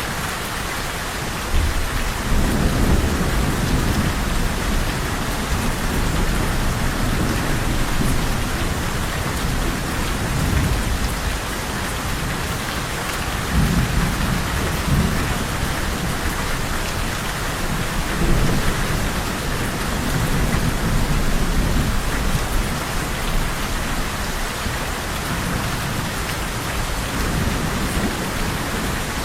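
Steady heavy rain falling, with low thunder rumbling several times over it, the first roll coming a couple of seconds in.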